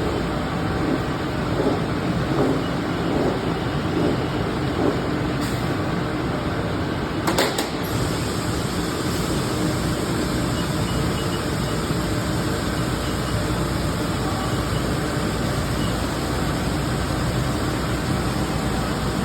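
Steady mechanical hum of a running Haas ST-20Y CNC lathe, with sharp clicks about five seconds in and again a little after seven seconds.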